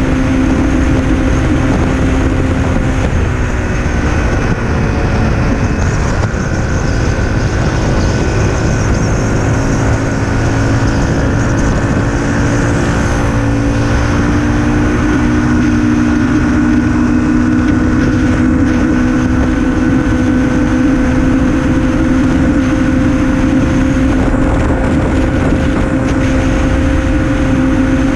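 Honda CRF250L's single-cylinder four-stroke engine running steadily at cruising speed in a high gear, over a steady rush of wind and road noise. The engine note dips and recovers a couple of times.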